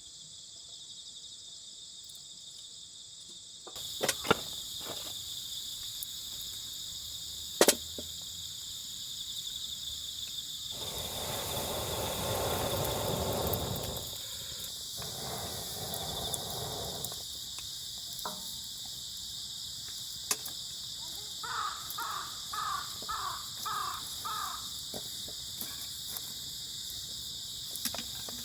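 Crickets chirring steadily, while a crow caws about six times in a row in the second half. A few sharp clicks and a rush of noise lasting a few seconds come in the middle.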